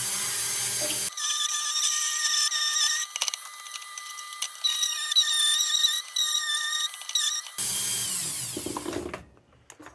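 Dremel rotary tool running at high speed on the lantern's painted metal, giving a high-pitched whine that wavers as it bears on the work. It spins down near the end.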